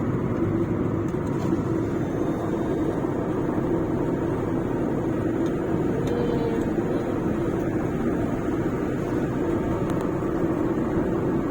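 Steady road and engine noise of a car driving at speed, heard from inside the cabin: an even rumble with a constant low hum.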